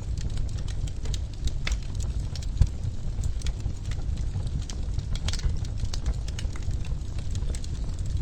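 Wood fire in a fireplace crackling: irregular sharp pops and snaps over a steady low rumble of the flames, with one louder pop about two and a half seconds in.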